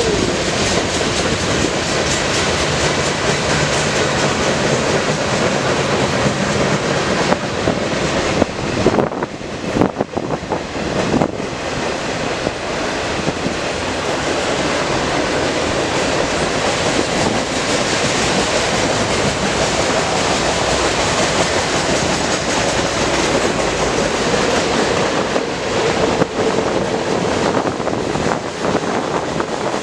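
Norfolk Southern freight train passing at close range: the steady, loud noise of its railcars and wheels on the rails, briefly easing about ten seconds in.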